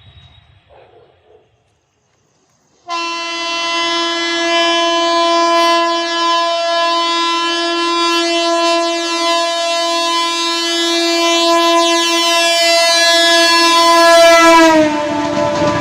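Horn of an ICF three-phase 12-car MEMU electric train sounding one long steady blast, starting about three seconds in. Near the end its pitch drops as the train passes, and the rush of the passing coaches comes in.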